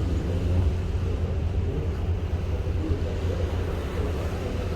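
Steady low drone with a rushing noise over it, the running noise of a ship under way at sea.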